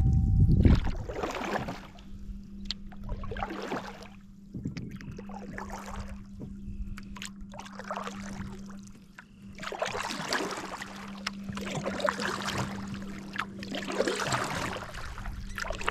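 Canoe paddle strokes in lake water, a swishing splash every second or two, over a steady low hum.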